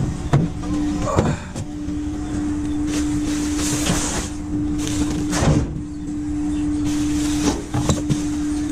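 Junk being shifted in a dumpster to pull out a microwave: scattered knocks, scrapes and rustling, over a steady hum.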